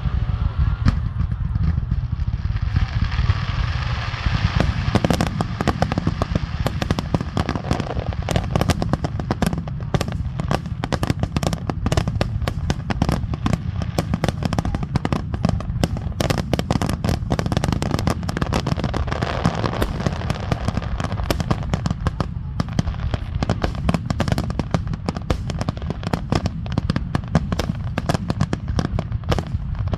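Fireworks finale barrage: shells bursting in rapid, overlapping succession over a constant low rumble, the sharp reports becoming dense, many a second, from about four seconds in.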